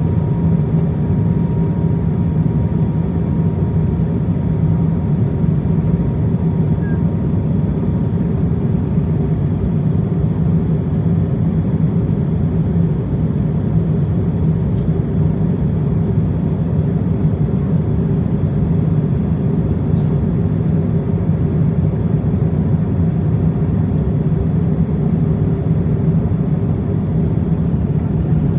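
Steady cabin noise inside an Airbus A350-1000 in flight: a dense low rumble of airflow and engines. A faint thin tone fades out about eight seconds in.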